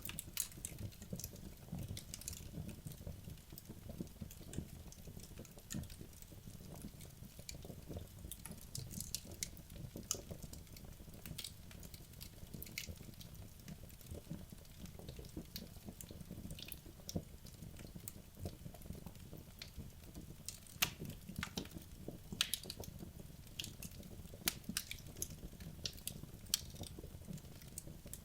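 Wood logs burning in a fireplace: a steady low rumble of flames with irregular sharp crackles and pops, growing more frequent in the last third.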